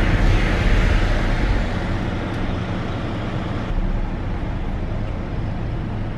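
Motor vehicle engine running with a steady low rumble, louder for the first second or so and then settling to an even level.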